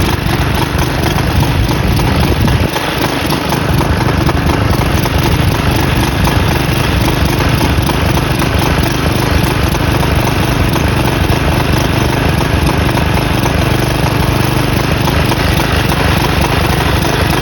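Briggs & Stratton flathead single-cylinder lawn mower engine running loud and steady while used motor oil is fed into its intake, with a brief falter about three seconds in.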